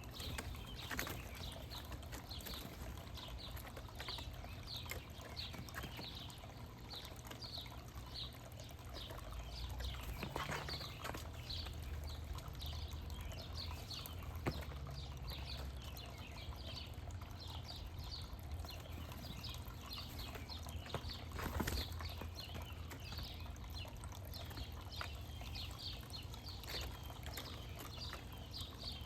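Songbirds chirping over and over: short, quick, falling chirps, two or three a second, with a steady low rumble underneath and a few sharp clicks.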